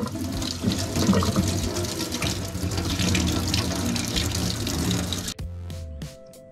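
Water running from a kitchen tap and splashing into a stainless steel sink as hands rinse a bunch of fresh coriander under the stream. The running water cuts off suddenly about five seconds in.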